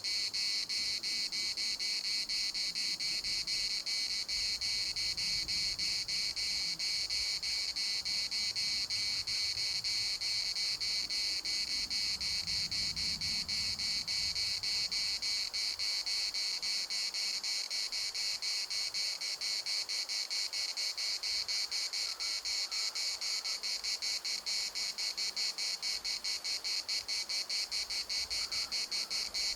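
Cicadas singing in chorus: a continuous high-pitched buzz with a rapid, even pulse.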